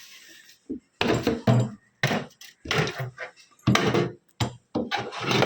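Refrigerator being handled: a series of separate knocks and clunks, in about four bursts with short pauses between.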